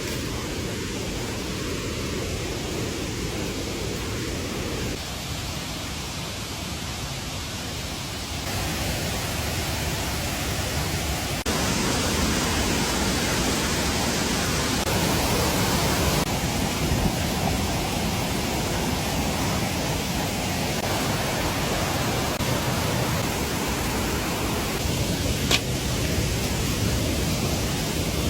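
Steady rushing noise of water, stepping up in level twice in the first half, with a single sharp click near the end.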